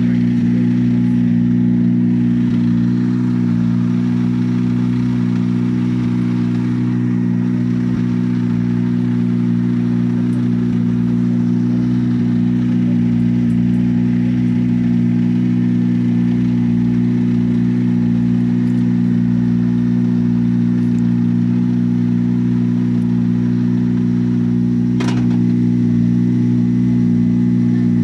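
Rally car engine idling steadily at a constant low pitch, with one short sharp click near the end.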